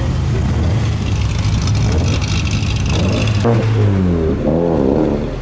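Car engines running as cars drive in at low speed. About halfway through, engine revs rise and fall several times.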